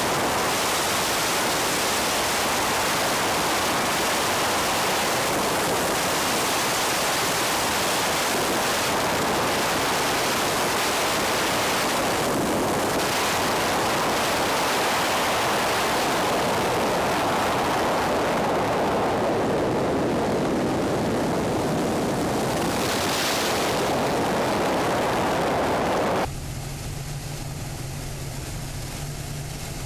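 Steady rushing airflow and engine noise of an aircraft in flight, picked up by an onboard camera. About 26 seconds in it cuts abruptly to a quieter, steady low engine hum.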